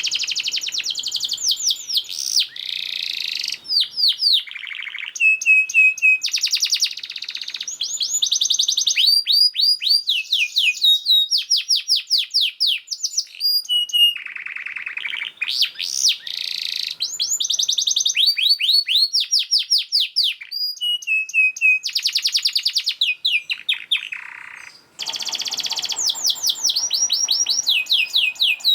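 Domestic canary singing a long, dense song of rapid trills, one fast-repeated note after another, with frequent changes of phrase and pitch.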